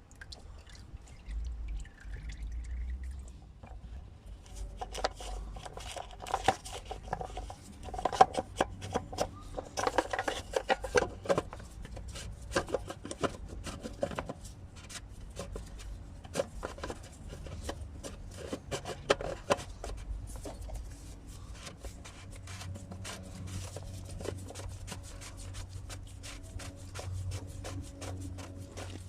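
Hand tools working on metal in a workshop: runs of rapid clicking and ringing metallic clinks, busiest in the middle stretch and thinning out toward the end, over a low steady hum.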